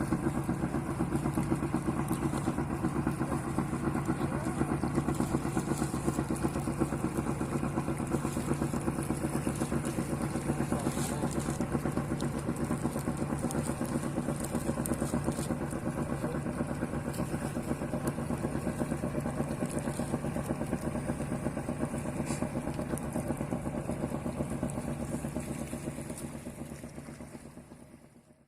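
A fishing boat's engine running steadily with a fast, even chugging pulse, fading out near the end.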